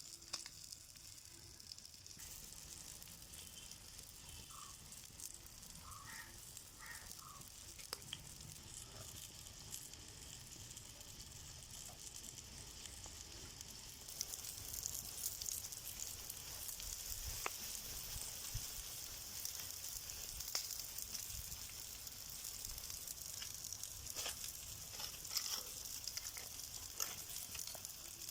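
Mackerel frying in hot oil: a steady sizzle with scattered pops, which grows louder about halfway through.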